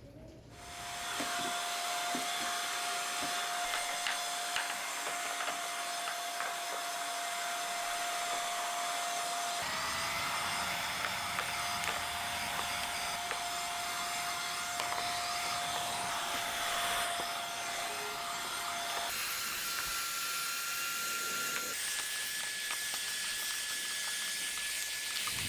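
Homelia Roomstick cordless mini vacuum running steadily while it sucks up window-track dust: a hiss of rushing air with a steady motor whine. The whine starts about half a second in and steps up in pitch twice near the end.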